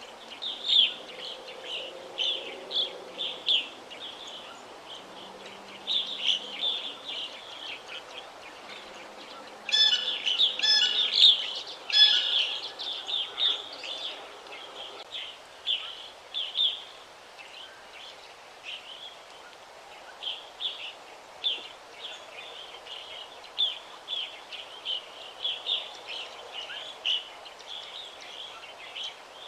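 Several songbirds chirping and trilling over a faint background hiss, with a louder burst of sharp calls about ten seconds in.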